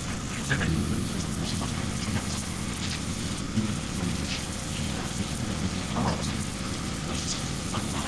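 Pressure washer running steadily, its water jet spattering against a metal transmission case to rinse off degreaser.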